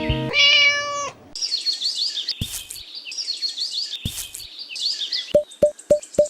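A single held meow, followed by about four seconds of rapid high bird chirping. Near the end a steady ticking beat begins, about four ticks a second.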